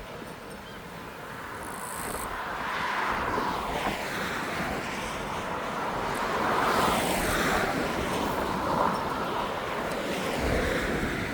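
Gale-force wind gusting, swelling and easing in waves of noise. About ten seconds in, a low rumble of wind buffets the microphone.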